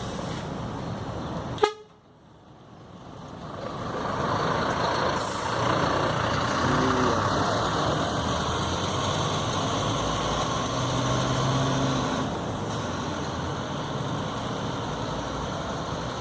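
A Scania K 310 coach driving past on the road, its engine and tyre noise building up over a couple of seconds after a sharp click, then running steadily, with a low horn sounding briefly about eleven seconds in.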